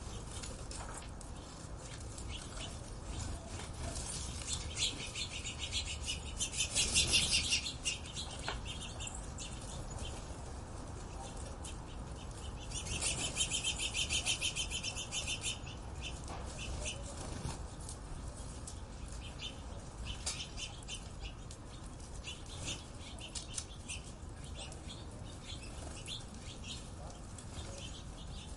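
Small birds chirping and twittering, with two stretches of fast, rapidly repeated trilling notes that are the loudest part.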